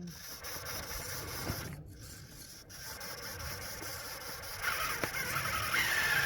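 Electric RC rock crawler struggling through snow: the drivetrain whines while the chassis and tyres scrape and drag. The whine grows louder and wavers with the throttle over the last couple of seconds.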